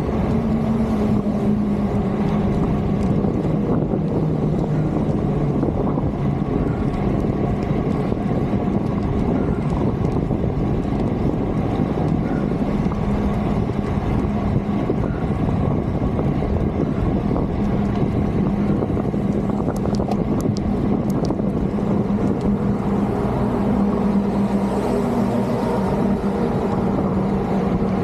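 Wind rushing over the microphone while riding along a road, over a steady low hum from traffic or an engine. A few faint ticks come about two-thirds of the way through.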